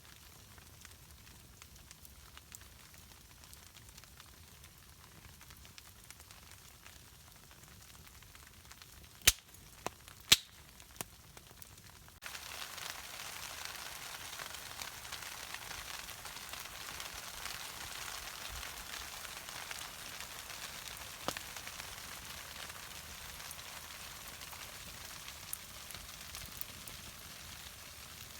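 Campfire hissing and crackling in the rain, with two sharp pops about nine and ten seconds in. About twelve seconds in the hiss suddenly gets louder and stays steady.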